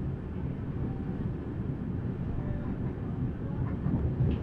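Passenger express train running on the track, heard from aboard the coach: a steady low rumble.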